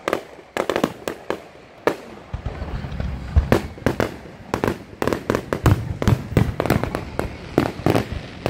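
Fireworks grand finale: aerial shells bursting in a rapid, irregular barrage of bangs. A low rumble builds underneath from about two seconds in, and the bangs come thicker toward the end.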